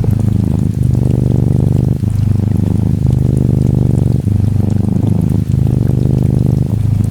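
Norwegian Forest Cat kitten purring close to the microphone, a steady low rumble that breaks briefly about every second as it switches between breathing in and out.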